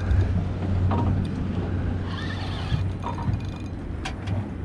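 Boat engine idling with a steady low hum, and a few brief higher sounds over it.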